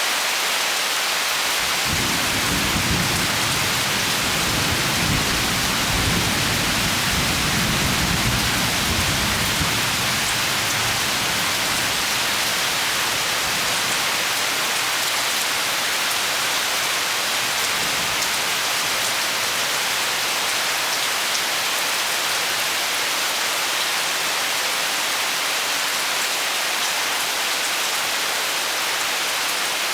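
Steady heavy rain, with a long low rumble of thunder that starts about two seconds in and dies away over the next several seconds.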